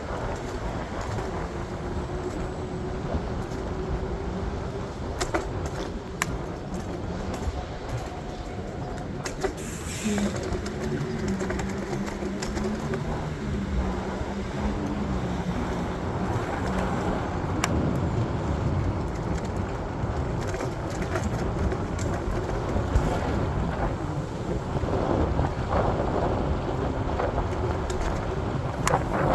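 Steady vehicle running noise with a low hum that shifts pitch in steps midway, and scattered clicks and knocks.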